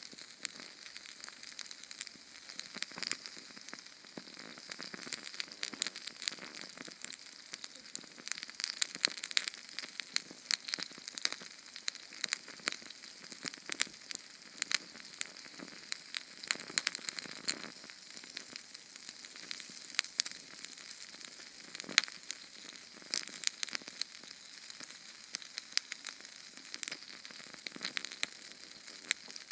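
A small Sterno canned-heat flame burning: a steady high hiss with dense, rapid crackles and snaps.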